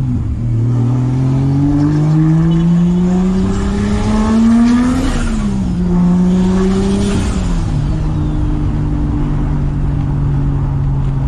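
Engine of a turbocharged 1994 Toyota Supra heard from inside the cabin while driving. The engine note climbs steadily for about four seconds, drops with a gear change about five seconds in, then drops again and settles into a steady cruise.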